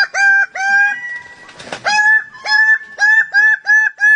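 A bird calling loudly in a run of short, identical calls, each rising quickly and then holding: three calls, a pause of about a second, then about six more at two or three a second.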